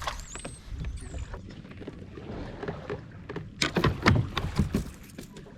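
A small white crappie being landed at a kayak: a quick cluster of sharp splashes and knocks a little past halfway, over low steady water and wind noise, with a few short high chirps near the start.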